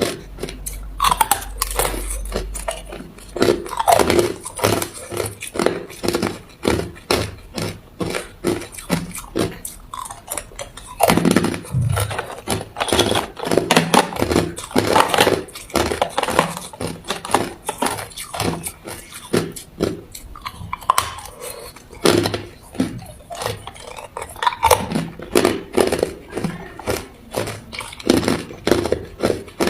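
A person biting and chewing hard ice close to the microphone: a continuous run of sharp crunches and cracks, several a second.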